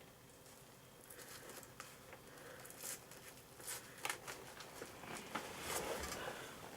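Faint rustling, creaking and small clicks of a leather motorcycle glove being pulled onto the hand and fastened, busier toward the end.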